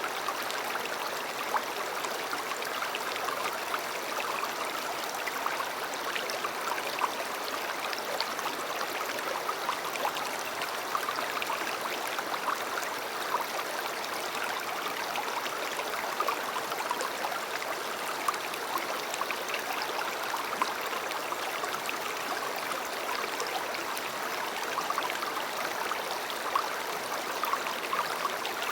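River water flowing steadily over stones, a constant rush dotted with small splashes and gurgles.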